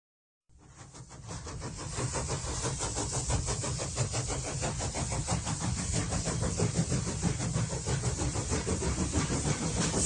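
Train sound effect fading in from silence: a locomotive running with a low rumble and a fast, even rhythmic chugging.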